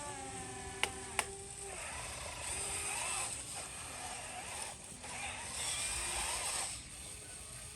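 Small electric motors and gearboxes of radio-controlled construction models whining as they work, the pitch holding and shifting with the load, with two sharp clicks about a second in.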